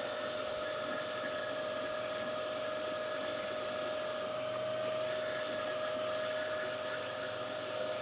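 Dyson DC07 bagless upright vacuum cleaner running steadily: a constant motor hum with a high, steady whine above it.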